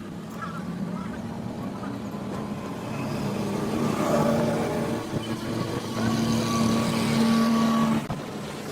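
A motor running, its sound rising about three seconds in and holding a steady pitch before cutting off suddenly near the end.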